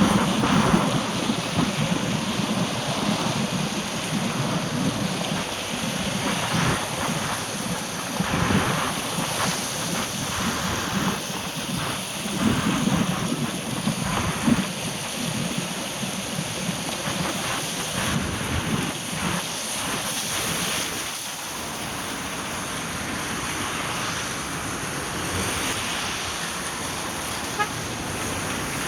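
Steady rushing noise of rain and wet-road traffic, with wind gusting on the microphone.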